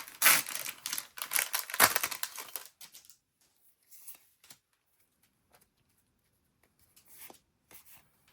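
A foil trading-card booster pack wrapper being torn open: a couple of seconds of ripping and crinkling. After that come only faint, scattered clicks and rustles of cards being handled.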